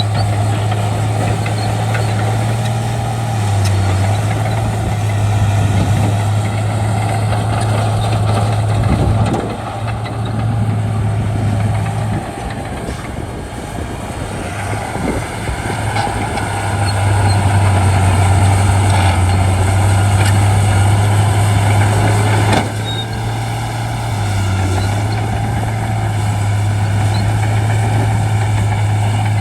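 A Shantui D95 crawler bulldozer's diesel engine working steadily while pushing fill. Its note sags and the level drops for a few seconds about ten seconds in, then comes back up as it works again.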